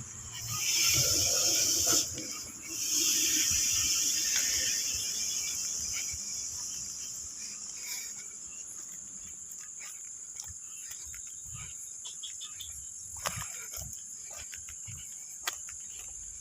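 Night insects keep up a steady high-pitched drone. In the first few seconds there are two loud rushing noises, the second fading away slowly, and later scattered sharp clicks.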